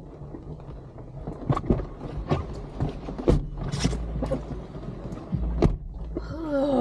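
A run of irregular clicks and knocks over a low rumble, like things being handled inside a parked car. Near the end a voice starts, groaning with a rising and falling pitch.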